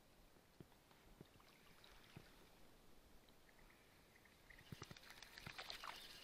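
Near silence with a few faint knocks, then a quick flurry of small clicks and rustling near the end: tackle and hands moving in a small boat.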